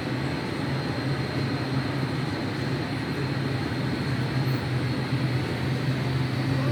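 Airplane engine running steadily: an even low drone with a thin high whine above it.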